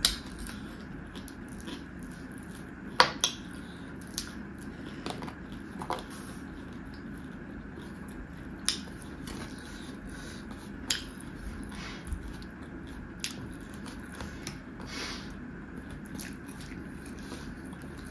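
A person eating rice by hand: soft chewing with sharp, wet clicks and smacks every second or two.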